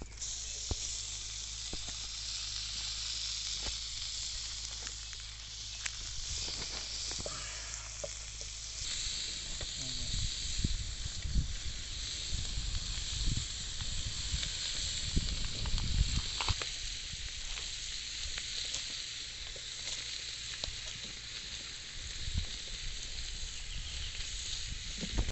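Food sizzling in hot oil in a pan over an open wood fire, a steady hiss, with scattered low thumps and rumbles through the middle.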